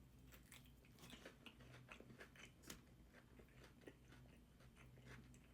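Faint close-up chewing of a fried chicken tender: irregular soft crunches and small wet mouth clicks.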